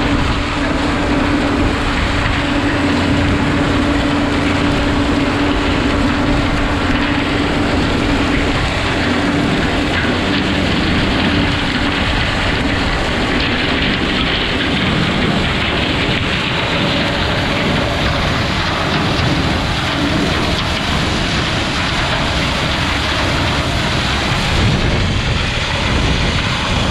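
Tractor running a John Deere 72 stalk chopper off the PTO for a test: a loud, steady, rushing mechanical din, with a low engine hum that fades after about nine seconds.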